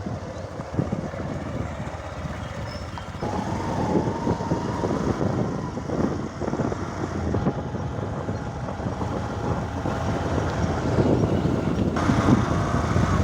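Motorcycle engine running while riding, with a dense, uneven rumble. A steady whine comes in about three seconds in and fades near the ten-second mark.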